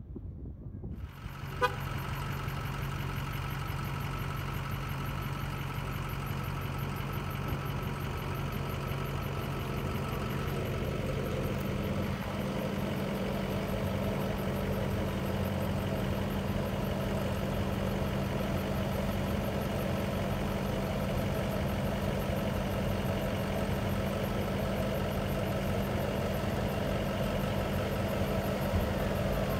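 A steady mechanical hum holding a few constant tones, starting about a second in just after a short click.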